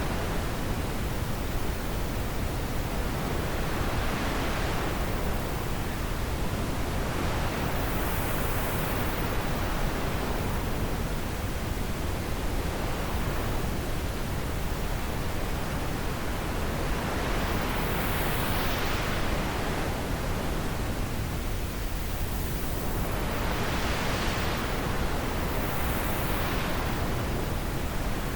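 Steady wind with a constant hiss, swelling and easing in gusts every few seconds.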